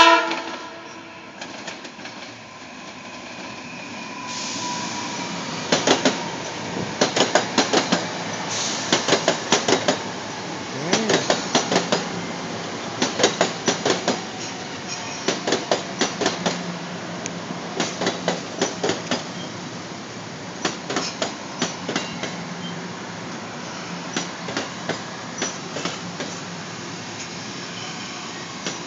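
A train horn blast cuts off right at the start. Then a passenger train passes close by, its rumble building and its wheels clacking over rail joints in quick clusters of clicks, one cluster about every second.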